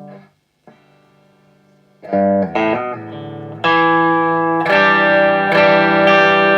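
Les Paul electric guitar played through a Marshall 2204 clone valve amplifier, picked up by a phone microphone. A quiet note rings at first, a few picked notes come in about two seconds in, then louder ringing chords are struck, restruck twice near the end.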